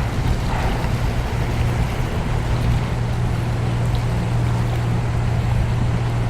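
Motorboat engine running at a steady speed, a constant low drone over a rumble of water.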